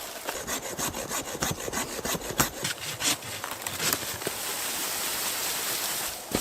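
A hand tool working wood, with irregular rasping, rubbing strokes for about four seconds, then a steadier scraping.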